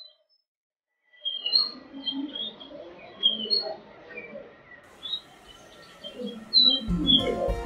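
Birds chirping and chattering, many short calls overlapping. Music begins near the end.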